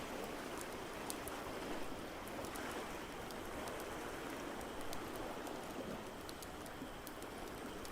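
Ocean waves washing steadily, with a wood fire crackling over them in scattered small pops.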